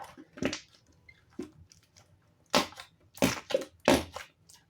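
Slime being squeezed and pressed in the hands, giving a few short squelching pops of trapped air: the fart noises that slime makes. The loudest pops come in the second half.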